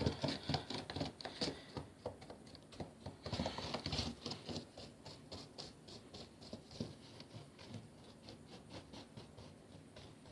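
A large paintbrush dabbing and scrubbing paint over polystyrene foam: a fast run of soft, scratchy taps that grows fainter toward the end.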